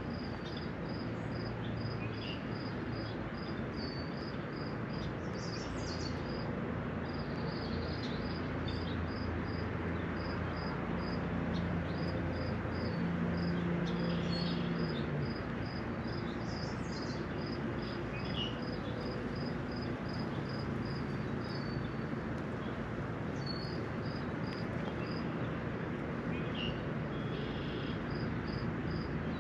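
Steady spring rain shower falling, with a high, even chirp repeated about two to three times a second and occasional short bird chirps over it.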